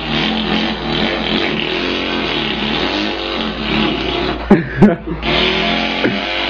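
A man imitating a running engine with his voice: a continuous buzzing drone that wavers in pitch. Two sharp clicks come about four and a half seconds in, and the drone turns brighter just after.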